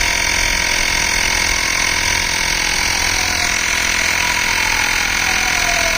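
Xiaomi rechargeable portable tyre inflator running steadily, its electric compressor pumping air into a motorcycle tyre. The buzz holds one level throughout, with a tone that slides slowly lower over several seconds and then jumps back up near the end.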